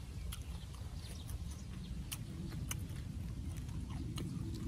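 Close-up chewing of raw greens: scattered crisp clicks and crunches, about one every half second to a second, over a steady low rumble.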